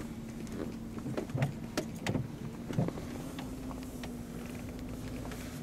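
Car running, heard from inside the cabin: a steady engine hum with a low rumble, and a few sharp clicks and knocks between about one and three seconds in.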